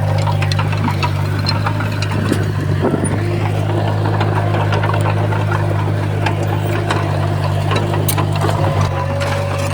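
Komatsu bulldozer's diesel engine running steadily with a deep hum, and scattered sharp clicks and knocks over it.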